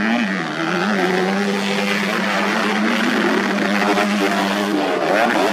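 Several modified underbone motorcycle engines running hard together. One holds a steady pitch while the others rise and fall over it.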